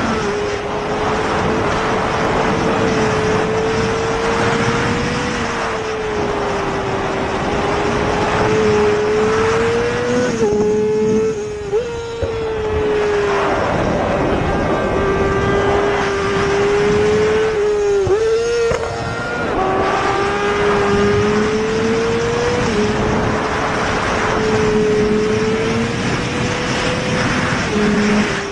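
Superbike engines running at high revs. One steady, high engine note wavers slightly and dips briefly twice, while fainter engine notes rise and fall over it.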